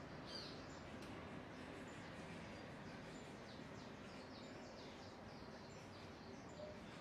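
Small birds chirping over steady background noise, many short high chirps in quick succession, faint throughout.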